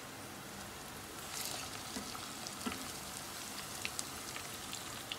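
Sliced onions frying in hot ghee, a steady sizzle. About a second in, the sizzle flares up as the marinated minced-meat kabab mixture drops into the pan, and scattered pops and crackles follow.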